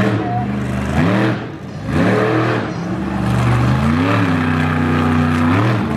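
Monster truck engine revving, its pitch climbing and falling several times, then held high for a couple of seconds before dropping near the end.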